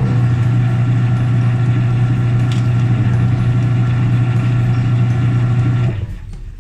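Washing machine drain motor (the valve-pulling drain actuator) energised on the bench, giving a loud, steady electrical hum that cuts off suddenly about six seconds in. The hum shows the motor is working once its broken terminal wire is reconnected.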